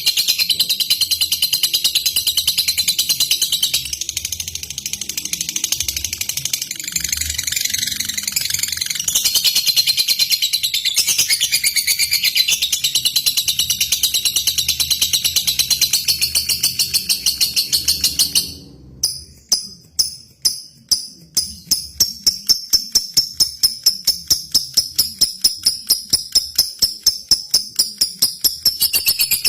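Lovebird singing a long, high-pitched chattering trill without pause. About two-thirds of the way in it breaks suddenly into a fast, regular run of sharp repeated chirps, about three a second.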